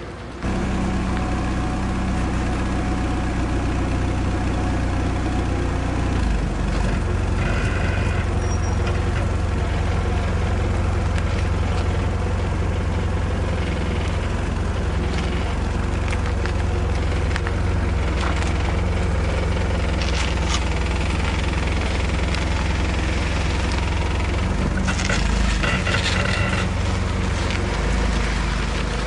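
Engine running at a steady idle, starting abruptly just after the start, with a few light clicks and rattles over it.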